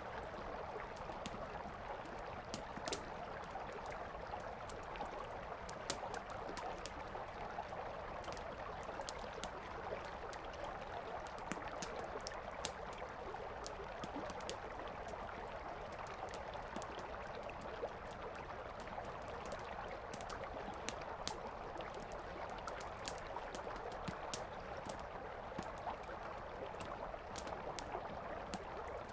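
Campfire crackling, with frequent sharp irregular pops, over the steady rush of a flowing river.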